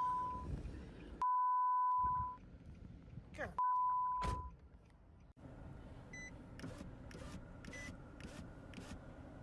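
Three steady high beep tones, each under a second long, with muffled voice and noise between them. After a sudden break about five seconds in, a run of sharp clicks comes at roughly even spacing, about one every half second.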